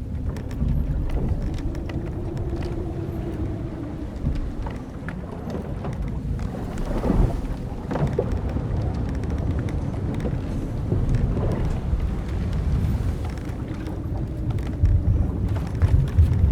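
Old wooden sailing ship creaking: drawn-out creaks of the timbers and ropes, with scattered sharp wooden knocks about halfway through, over a steady low rumble of wind and waves.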